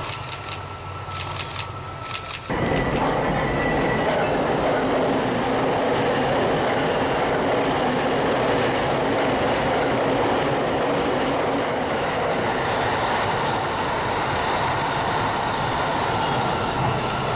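Electric train running past on the tracks. At first there are light clicks of wheels over the rails; about two and a half seconds in, a loud, steady rush of wheel and rail noise sets in abruptly and holds.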